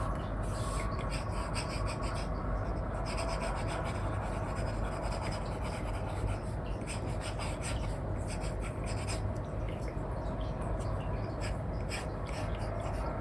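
Apple Pencil 2 with an Elecom replacement nib scratching across a paper-like screen film on an iPad, in many short strokes in quick succession, over a steady low hum.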